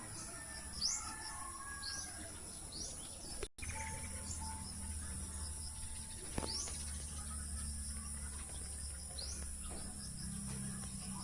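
Birds calling outdoors: short, sharp upswept chirps every second or two, over a steady high-pitched insect drone and quick high ticking.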